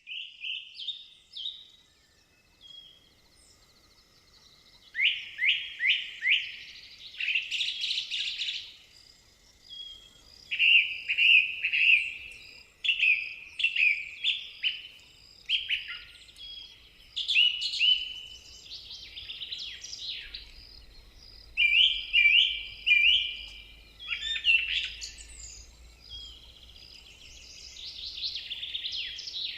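Songbirds chirping in short bursts of three to five quick, high, falling notes, repeated with brief pauses, as a morning birdsong ambience.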